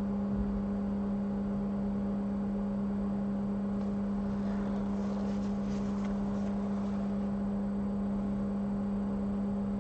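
Steady low electrical hum from the micro-soldering bench equipment, even in level, with a few faint light ticks near the middle.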